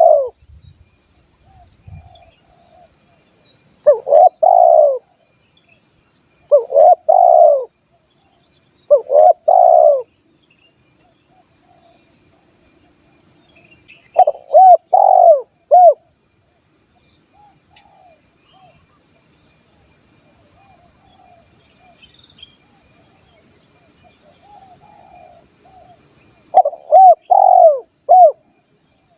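Spotted dove (tekukur) cooing: five loud phrases of two or three notes each, coming every few seconds with a long gap in the middle, and fainter coos in between. A steady high insect trill runs underneath.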